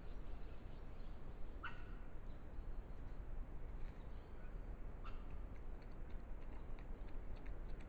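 Faint bush background with a steady low hiss, broken by two short, high bird chirps, one a little under 2 seconds in and one about 5 seconds in.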